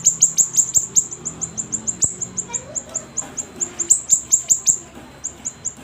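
Siri-siri songbird singing vigorously: a rapid run of short, high chirps, each dropping in pitch, about seven a second, with a brief pause near the end.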